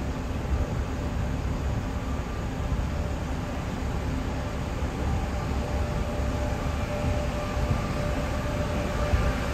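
Taiwan Railway Tze-Chiang express electric train moving slowly through the station: a steady low rumble with a faint steady motor tone that grows a little stronger in the second half.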